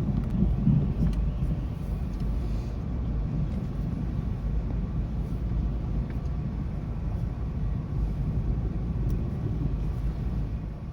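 Thunder rolling: a long, low rumble, strongest in the first second and then carrying on at a steadier level.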